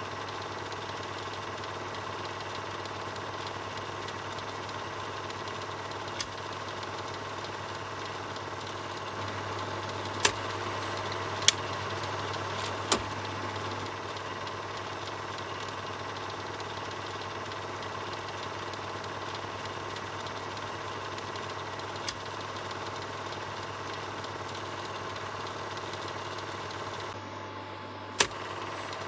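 Film projector running: a steady mechanical whirr over a constant low hum. A few sharp clicks are scattered through it, three of them close together around the middle and one just before the end.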